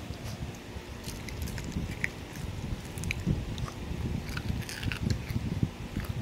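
Chewing and crunching of food: scattered small crisp crackles over a dull, uneven low rumble.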